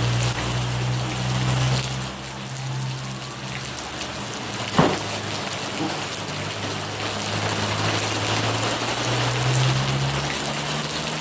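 Rain falling on a flooded street, with car engines running steadily in the traffic underneath. A single short, sharp knock comes about five seconds in.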